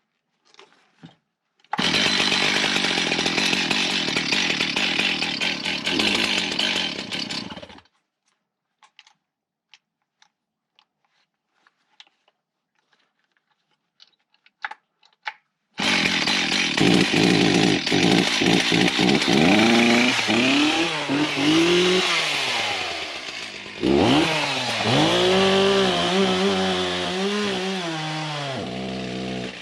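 Stihl two-stroke chainsaw running hard, cutting off abruptly after about six seconds, then a stretch of near silence with a few faint clicks. The saw starts again about halfway through, its engine pitch repeatedly dropping and climbing back as it bogs in the cut and frees up again.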